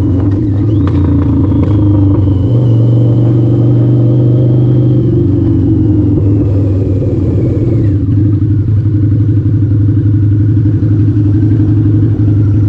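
Harley-Davidson V-Rod's V-twin engine running steadily while the motorcycle rides along, a loud, even low drone.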